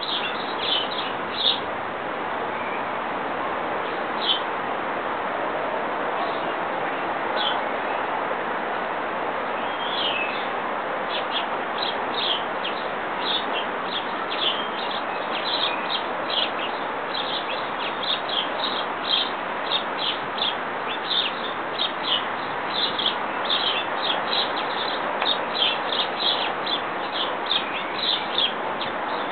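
Birds chirping in short, high notes. There are only a few in the first ten seconds, then they come quicker, several a second, in the second half. A steady background hiss runs underneath.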